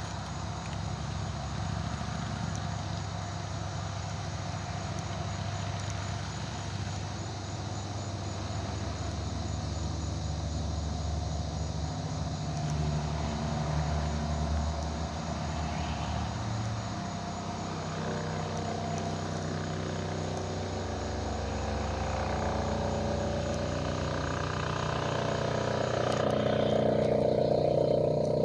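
Eurocopter EC135 helicopter with its twin turbines and rotor running steadily, the sound growing louder toward the end as it approaches.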